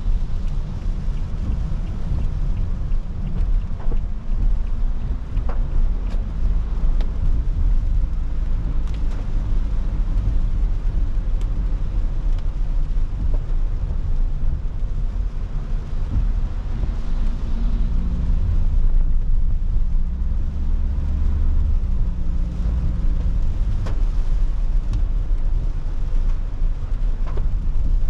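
Car driving in rain, heard from inside the cabin: a steady low rumble of road and engine noise, with scattered faint ticks.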